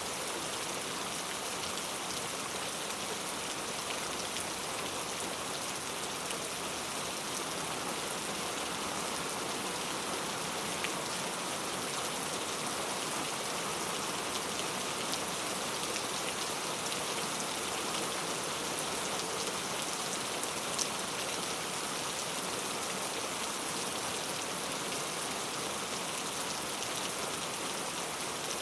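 Heavy rain falling steadily on hard urban surfaces, an even hiss with the occasional sharper drop.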